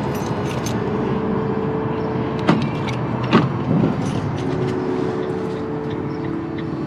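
Steady hum of a running vehicle engine, with two sharp clicks or knocks about two and a half and three and a half seconds in and a softer knock just after, like things being handled or shut nearby.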